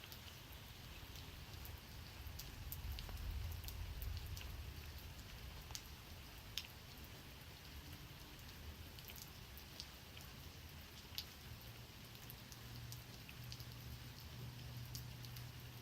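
Steady rain falling, with scattered drops tapping sharply close by. A low rumble swells for a couple of seconds about three seconds in.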